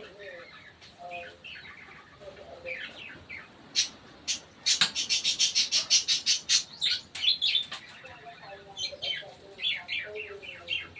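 African lovebirds chirping in short, high calls. About five seconds in comes a loud burst of rapid shrill chirps, roughly seven a second, lasting nearly two seconds.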